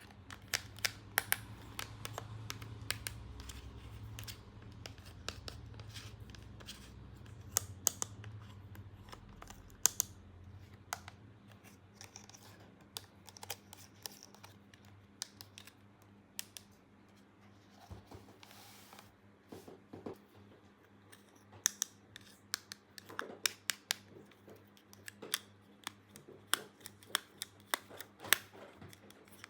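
Unboxing and handling of a plastic toy playset: many irregular sharp clicks, taps and snips of small plastic parts and packaging, with a low hum under the first third that stops about eleven seconds in.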